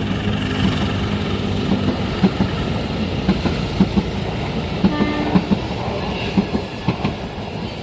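A long train's cars rolling past, the wheels knocking over the rail joints in a steady clickety-clack over a continuous rumble. A low pitched hum fades out over the first two seconds.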